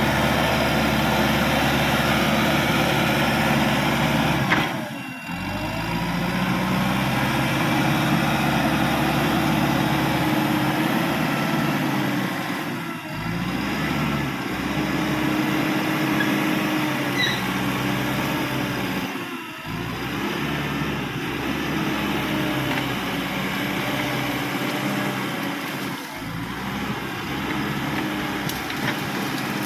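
Caterpillar D5K XL bulldozer's diesel engine running, its pitch rising and falling as it works, with short dips about every six to seven seconds.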